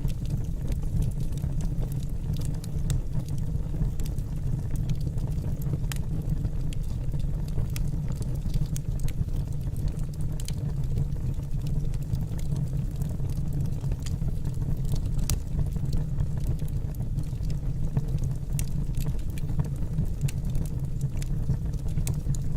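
Wood fire crackling in a fireplace: a steady low rumble from the burning logs, with frequent sharp, irregular pops and crackles.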